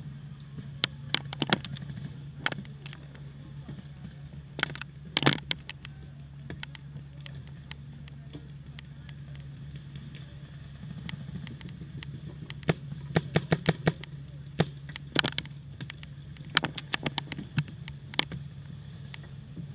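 Paintball markers firing: scattered sharp pops and quick strings of several shots a second, loudest and most frequent in clusters about five seconds in and in the second half, over a steady low hum.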